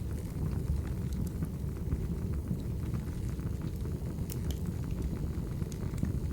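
Wood fire burning in a fireplace: a steady low roar with scattered small crackles and pops.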